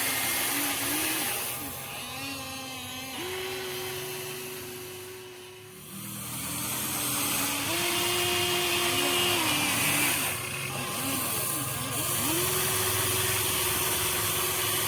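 Small electric gear motors of a Huina 1593 RC excavator whining as the boom, arm and bucket are worked, the pitch stepping up and down as the motors start, stop and change load. The whine dips and goes quieter about five to six seconds in, then picks up again.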